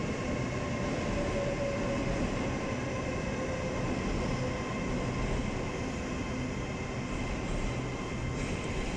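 TransPennine Express Class 802 bi-mode train moving slowly along a platform, a steady rumble with a faint whine that falls slightly in pitch during the first few seconds.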